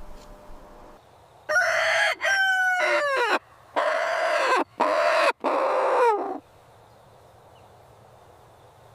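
Rooster crowing: a run of loud pitched calls with sliding, falling pitch, starting about a second and a half in and ending past six seconds.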